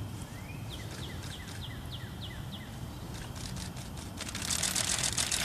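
A bird calling: a short rising whistle, then a string of about seven quick, falling chirps. From about three seconds in, a rapid high clicking and rustling builds up and becomes the loudest sound near the end.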